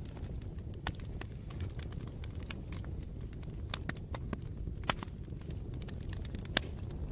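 Campfire burning: irregular sharp crackles and pops of burning wood over a steady low rush, with the loudest pops about five and six and a half seconds in.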